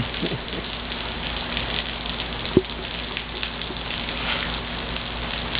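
Steady rain falling and pattering on surfaces, with a single sharp knock about two and a half seconds in.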